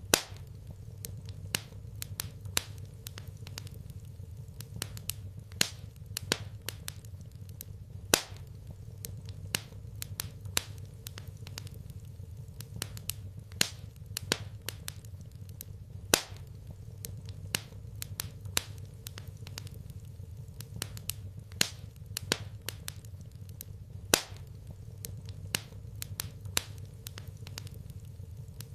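Wood fire in a fireplace crackling, with frequent irregular sharp pops over a steady low hum.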